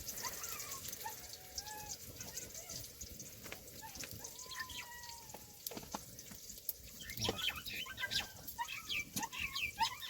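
Birds calling: scattered short whistled and chirping calls that grow busier over the last few seconds, over a steady hiss of rain.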